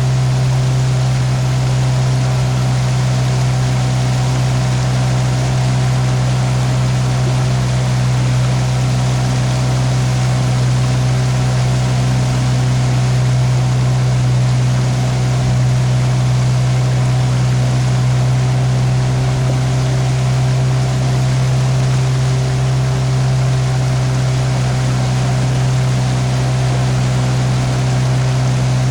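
Riverboat's motor running at a steady, unchanging pitch, over a constant rush of water from the boat's wake.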